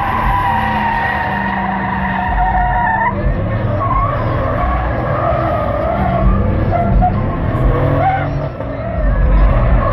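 Tires squealing as a lowered pickup truck spins donuts, with its engine running underneath. The squeal holds steady, then wavers in pitch from about three seconds in.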